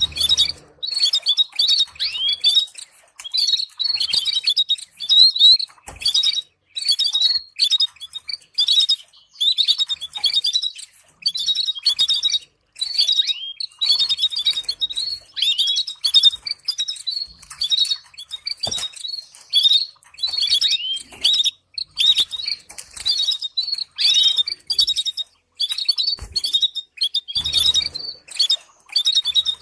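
Canary singing: phrase after phrase of rapid high chirps and trills, with short breaks between phrases.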